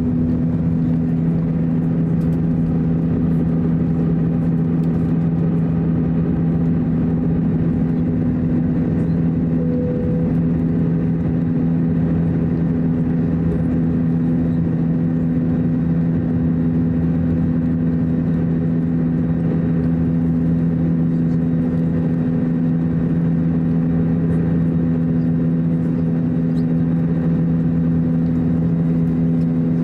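Cabin noise inside an Airbus A321: its two IAE V2530-A5 turbofan engines running with a steady drone, with two steady hum notes over a broad roar and no change in pitch.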